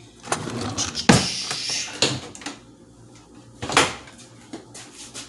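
Kitchen drawers and cupboards being opened and rummaged through, with rustling and clattering and two sharp knocks, about a second in and near four seconds in, as things are moved about in a search for a knife.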